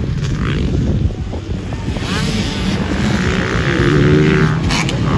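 Dirt bike engine running hard on a motocross track, its pitch rising and falling as the throttle is worked, with wind noise on the microphone.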